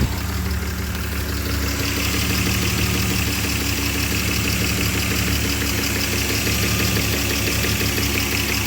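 BMW M50B20 2.0-litre straight-six idling steadily, warm, an engine that intermittently cuts out and idles rough when hot; the owner suspects an air leak at the intake pipe. A higher hiss comes up about two seconds in.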